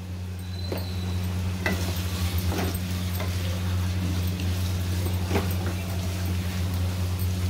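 Onions and tomatoes sizzling in a non-stick kadhai while a wooden spatula stirs them, with a few short scrapes and knocks of the spatula against the pan. A steady low hum runs underneath.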